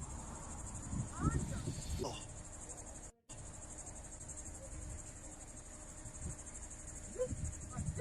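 Chorus of insects chirping: a steady, fast-pulsing high trill, with a brief cut to silence about three seconds in. Faint low rumbles lie underneath.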